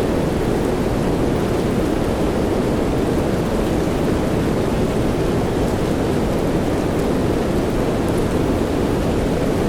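Soft rain falling steadily, heard as an even, deep hiss with a few faint drop ticks and no breaks.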